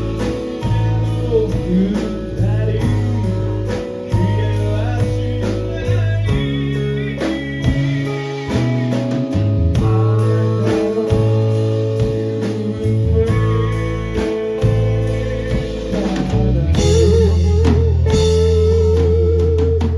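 Live rock band playing: electric guitar with bass and a steady drum beat, and singing. A long, wavering held note comes in near the end.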